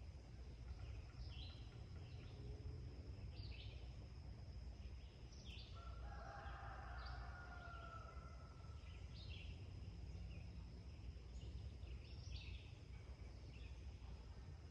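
Early-morning farmyard ambience: small birds chirping in short calls every second or two over a steady high insect drone and a low rumble, with a distant rooster crow lasting about two seconds around the middle.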